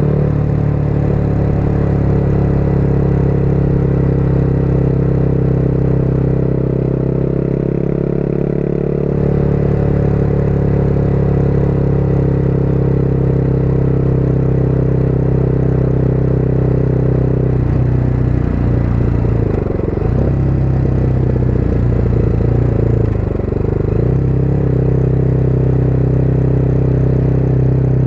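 Motorcycle engine running at a steady cruise, heard from the rider's seat with wind noise. About two-thirds of the way through, the engine pitch drops and climbs again twice, as the revs fall and rise.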